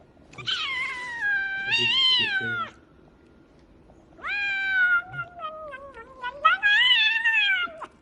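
A cat meowing: three long, drawn-out meows with short pauses between them, the first lasting over two seconds.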